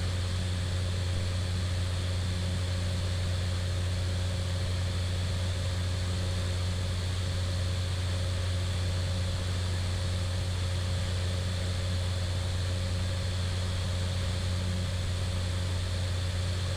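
Steady, unchanging drone of a Cessna 208 Caravan's turboprop engine and propeller, heard from inside the cockpit.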